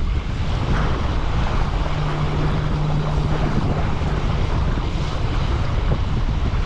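Strong gusty wind buffeting the microphone, with waves splashing against the bank. A low steady hum joins in for a couple of seconds in the middle.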